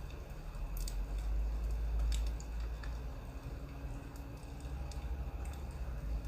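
Wood fire crackling, with scattered sharp pops at irregular times over a low steady rumble.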